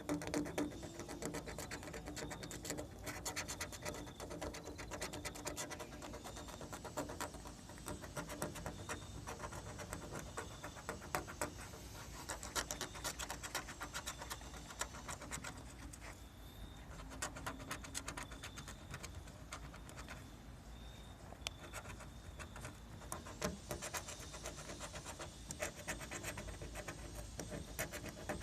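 Scratch-off lottery ticket being scratched, with rapid, continuous scratching strokes across the card's coating.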